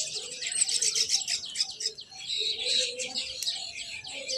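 Many small birds chirping together: a dense chorus of quick, overlapping high chirps.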